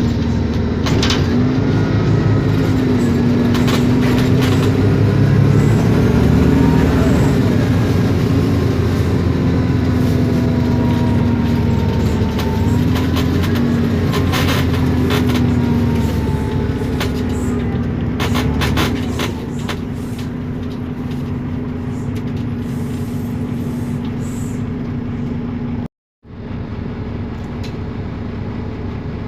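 Isobus City 1200 city bus under way, its MAN D0836 six-cylinder diesel and ZF Ecomat automatic gearbox running with a whining tone that slides up and down and frequent rattles of loose interior parts. About 26 seconds in the sound cuts out for a moment and comes back steadier and quieter.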